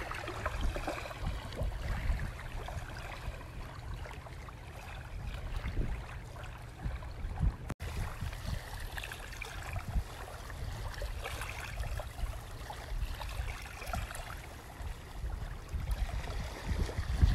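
A small boat moving across the sea, with water washing against the hull over a steady low rumble.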